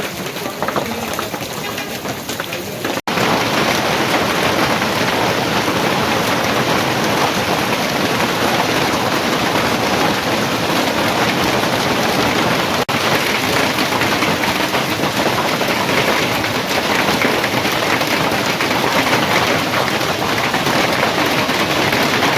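Hailstones and heavy rain pelting down in a steady, dense patter. It gets louder after a momentary break about three seconds in.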